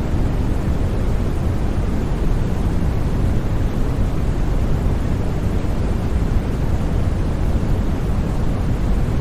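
Steady, unbroken white noise for sleep, with no tones or changes. Its energy sits mostly in the low end and falls off toward the highs, so it sounds deep rather than bright.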